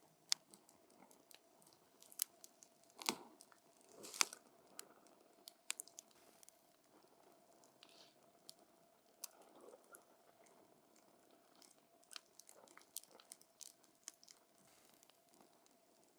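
Wood fire crackling, with irregular sharp pops and snaps over a faint hiss of burning; the loudest pops come about three and four seconds in.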